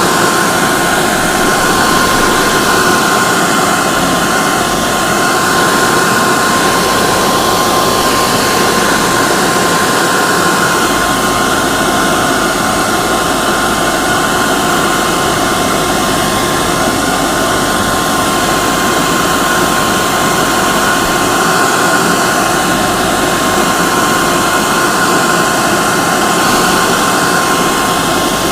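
Hair dryer running steadily: a constant rush of blown air with a steady whine from its fan motor.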